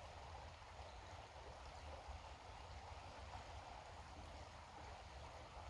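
Faint, steady rush of a creek flowing over stones, with a low rumble underneath.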